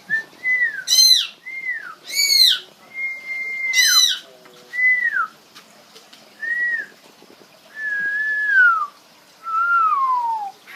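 Parrot calling: a run of clear whistled notes that slide downward, broken in the first four seconds by three loud, harsh squawks.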